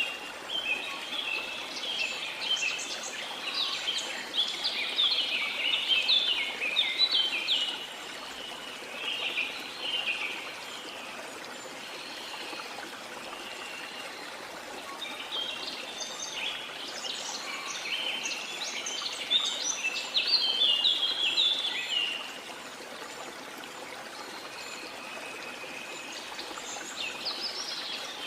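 Small birds singing in quick, chattering bursts, in two long bouts with a few phrases near the end, over a steady wash of sea noise.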